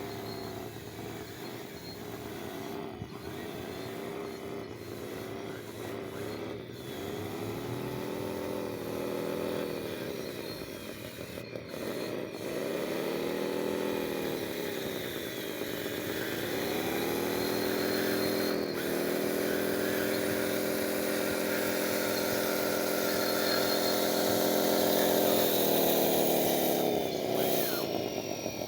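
Small electric motor of a radio-controlled construction model whining, its pitch rising and falling again and again as it speeds up and slows, then holding high and steady for several seconds before dropping near the end.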